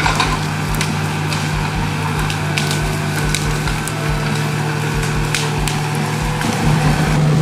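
Excavator's diesel engine running steadily under load while wood cracks and splinters, as when brush and limbs are being mulched. The engine pitch steps up and gets louder near the end.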